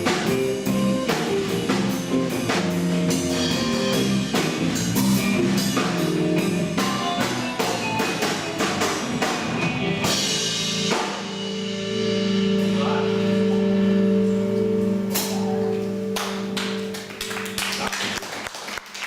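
A band playing: a drum kit beating a steady rhythm with guitar. About halfway through it moves into sustained held notes with a few cymbal crashes.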